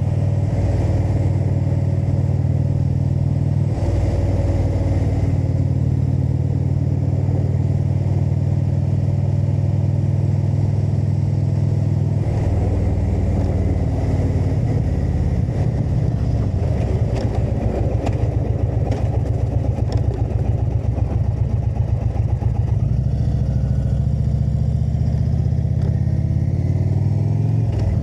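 Indian V-twin motorcycle engine running on the road. Its pitch shifts about 4 seconds in and again about 12 seconds in, it sounds rougher and more uneven for a while after that, and it revs up near the end.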